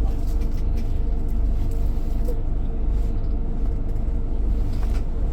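Steady low rumble of a Scania K410IB bus heard from inside the passenger cabin, its engine and road noise running on at an even level, with a faint steady hum over it.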